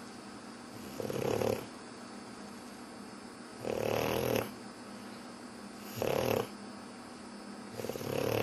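Pug dog snoring: four rasping snore breaths, one about every two to two and a half seconds.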